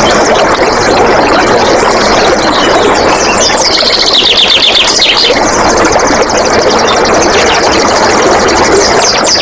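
Running water rushing steadily, with a wild bird's rapid high trill about three seconds in and another starting near the end.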